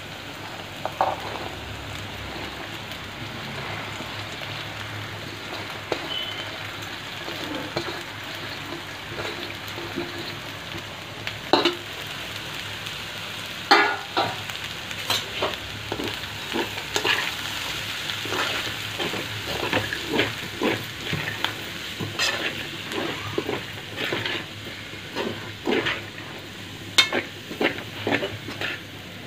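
Chopped cabbage sizzling as it fries in a metal pan, with a metal spoon scraping and clinking against the pan as it is stirred, more often in the second half.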